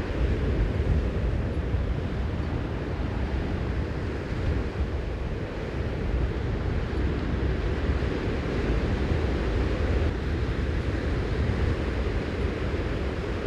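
Wind buffeting the microphone outdoors at the harbour mouth: a steady low rumble with an even rushing hiss above it.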